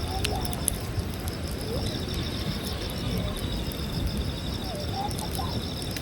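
Campfire crackling now and then over a low rumble, with insects trilling steadily and a few short gliding bird calls.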